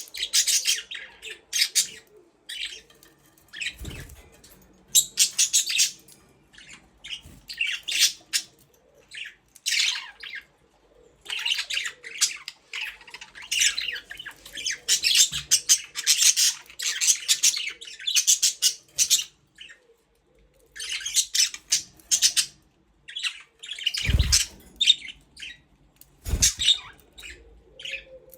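A flock of budgerigars chirping and chattering in bursts of rapid, high-pitched chirps, with two dull thumps near the end.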